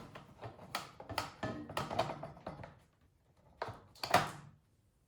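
Irregular clicks, taps and knocks of snowblower parts being handled as the fuel tank is set back in place, with a lull in the middle and the sharpest knock near the end.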